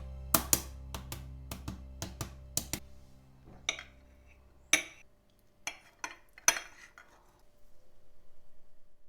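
Background music fading out over the first few seconds, with about a dozen sharp clinks of dishes and cutlery, some in quick pairs. A soft pulsing sound comes in near the end.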